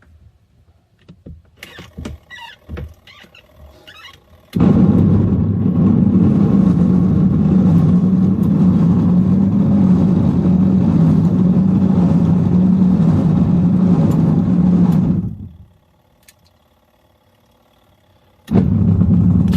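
Washing machine motor running with a steady low hum for about ten seconds, stopping, then starting again near the end, as in a wash cycle that alternates. It is preceded by a few light clicks and rattles.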